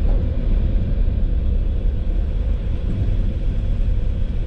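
Passenger train running: a steady low rumble with a faint steady hum above it.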